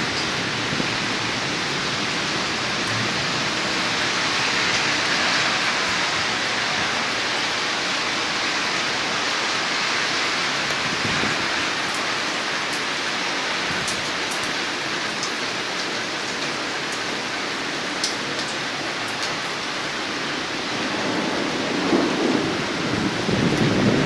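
Steady rain falling, a constant even hiss. Near the end a low rumble of thunder builds.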